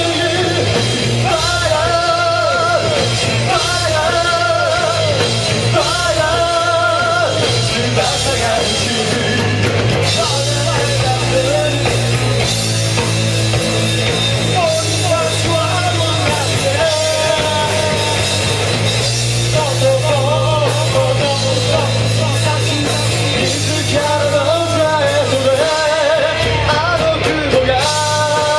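A rock band playing live, with a lead singer over a steady bass line.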